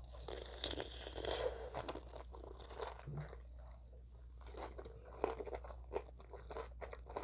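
Close-miked eating of extra-crispy fried chicken: irregular crunching and crackling of the breaded skin as it is bitten and chewed, busiest in the first two seconds and again near the end, over a faint steady hum.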